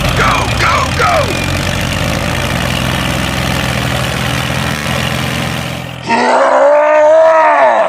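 A small motor or engine hums steadily for about six seconds, with a few brief sliding tones near the start. Then a loud comic sound effect cuts in: one pitched tone that swoops up and back down.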